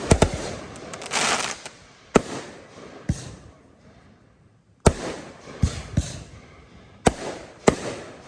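Aerial fireworks bursting overhead: about ten sharp bangs at uneven gaps, a few in quick succession, some followed by crackling.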